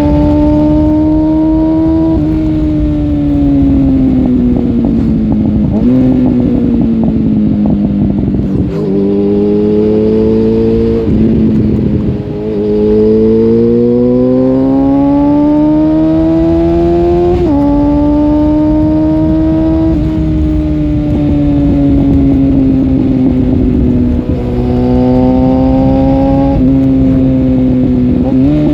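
Suzuki GSF 650 Bandit inline-four running through an aftermarket Dominator oval silencer with its dB killer removed, ridden hard. The engine note climbs through each gear and drops sharply at several gear changes, and falls away in stretches where the throttle is closed.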